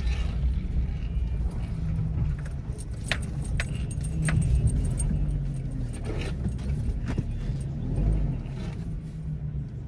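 Steady low road and engine rumble inside a moving car's cabin, with a few sharp clicks and light rattles.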